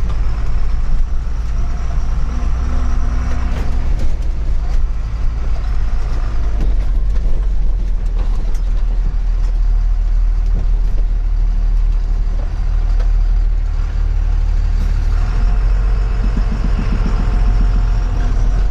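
Empty truck driving over a rough road: a loud, steady low engine and road rumble, with scattered knocks and rattles as the unladen truck shakes.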